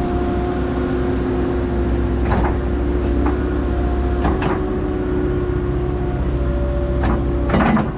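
Hyundai HX140AL excavator's diesel engine running steadily with a constant hum, a few short, sharper noises rising over it around the middle and near the end.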